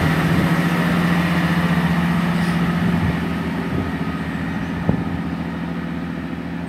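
Class 165 diesel multiple unit pulling out of the station, its underfloor diesel engines giving a steady low note that slowly fades as it moves away. A single sharp knock sounds about five seconds in.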